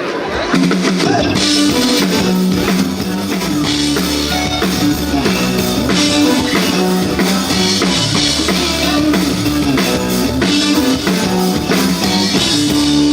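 Live band with drum kit, bass and guitar playing the instrumental opening of a Christmas carol, with a steady beat.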